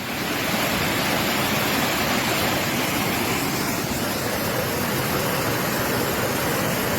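Floodwater rushing through a breach in a riverbank in a steady, loud roar of water, which swells just after the start and then holds.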